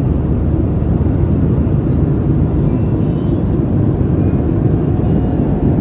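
Steady cabin noise inside a jet airliner in flight: an even, low engine and airflow roar.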